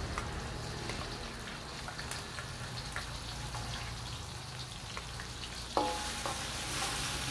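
Ground garlic, shallot and chili paste sizzling steadily in a little hot oil in a wok as it is sautéed, with a metal spatula scraping it off a plate into the pan and a few light clicks. A short metallic ring about six seconds in.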